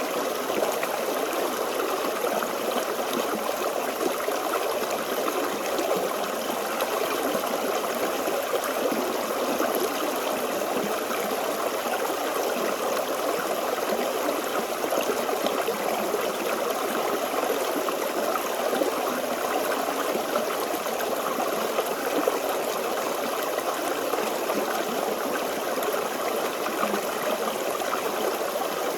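Small forest stream flowing steadily, water babbling and trickling over rocks.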